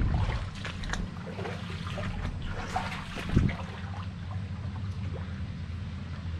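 Small splashes and trickles of river water around a small boat, over a steady low motor hum, with a single thump about three and a half seconds in.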